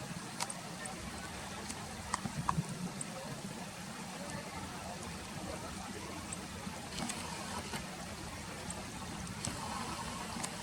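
Steady rush of river water, with scattered short, sharp high ticks.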